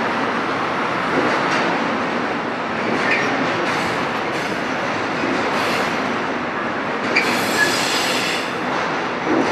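Freight train of double-deck car-transporter wagons rolling past on the rails: a steady rumble and clatter of wheels with scattered knocks, and a short high-pitched wheel squeal about seven seconds in.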